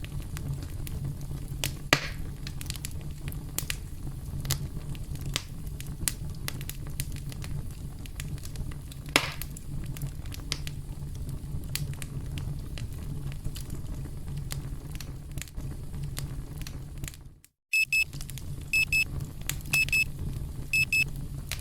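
Campfire crackling steadily with scattered sharp pops. Near the end the sound drops out for a moment, then a timer alarm beeps in short high pairs about once a second over the crackling: the countdown has reached zero.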